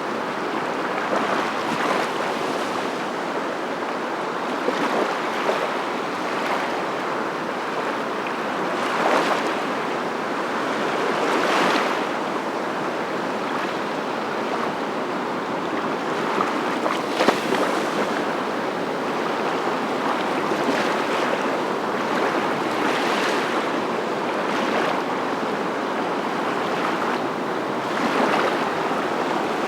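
Steady rushing of moving water, with brief swells every few seconds.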